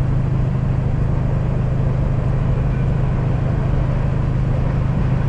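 A motor vehicle engine running steadily nearby: an even, unbroken low drone.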